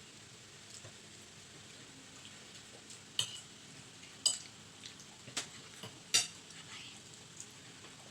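Metal cutlery clinking against a plate or dish, four sharp ringing clinks and a few fainter taps over a low steady hiss.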